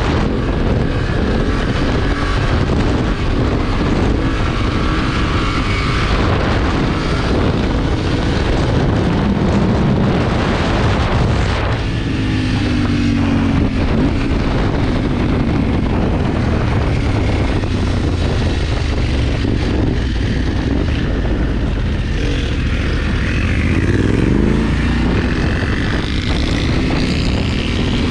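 BMW motorcycle engine running under way, revving up with a rising pitch about halfway through and again near the end, over heavy wind rumble on the microphone.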